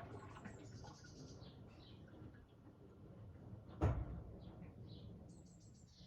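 Hoover Sportswear 1300 washing machine paused between drum turns on its delicate cycle, with a single sharp clunk about four seconds in and faint high chirps throughout.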